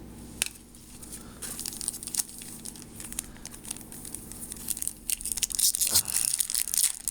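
Trading-card pack wrapper being crinkled and torn open, with a single click about half a second in and the crackling growing louder over the last couple of seconds.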